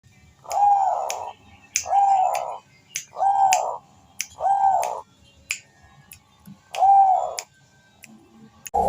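Male zebra dove (Bangkok-type perkutut) cooing: five short, arched coos of just under a second each, with a pause before the last, and sharp clicks between the notes.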